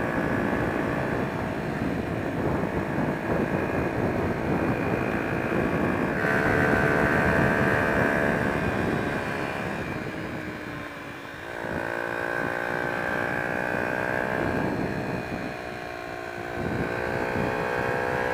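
Honda XR125's single-cylinder engine running while riding, its pitch rising and falling with changes in speed. The engine drops off about eleven seconds in, then picks up again.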